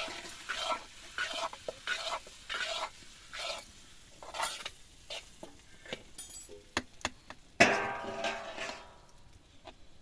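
Metal spoon scraping and stirring in a metal pot in short, repeated strokes, with one louder ringing scrape of metal about three-quarters of the way through.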